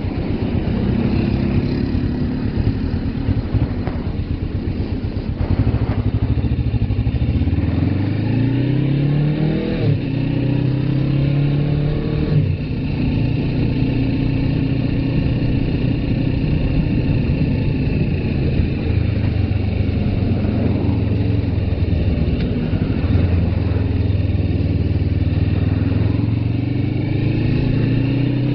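Suzuki GS500F's air-cooled parallel-twin engine running while the bike is ridden. It climbs in pitch as it accelerates, breaks off briefly twice for upshifts, holds steady at cruise, then eases off and picks up again near the end.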